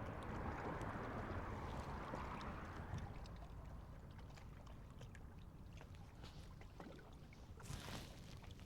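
Faint lake water lapping and trickling against the shoreline. It is a little stronger for the first few seconds, then softer, with a brief louder noise near the end.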